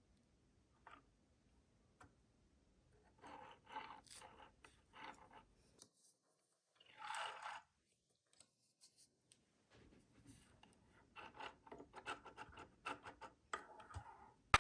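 Paper crafting by hand: groups of short crisp snips and rustles as paper is cut and handled, with one longer rustle of sliding paper about seven seconds in.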